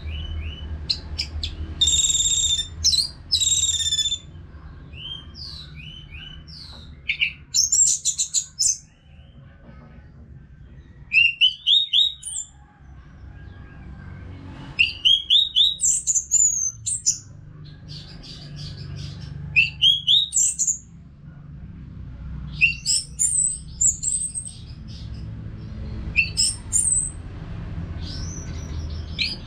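Orange-headed thrush singing: bursts of quick, varied high whistles and chirps every few seconds, with short pauses between phrases.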